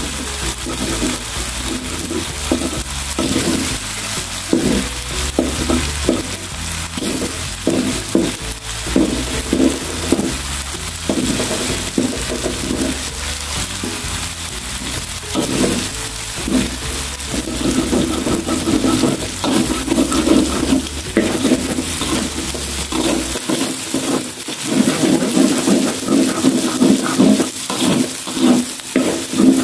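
Eggs and ground chilli-spice paste sizzling in hot oil in a wok, with a metal spatula scraping and stirring in quick repeated strokes as the eggs are scrambled into the paste. The strokes grow heavier in the last several seconds.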